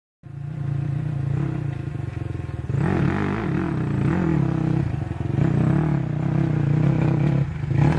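Rally motorcycle engine running hard, its pitch rising and falling repeatedly as it revs and changes gear.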